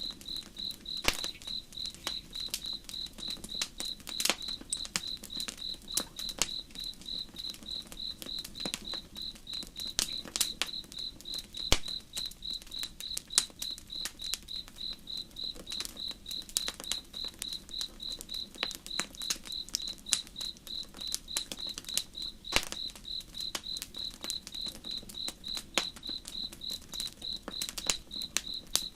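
Campfire crackling, with irregular sharp pops and snaps, over crickets chirping in a steady, even pulse. A faint low rush of river water runs underneath.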